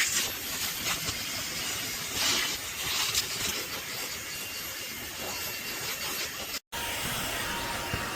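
Fanttik Slim V8 Apex cordless handheld vacuum running steadily with a hissing rush of air. The sound cuts out for an instant near the end, then carries on.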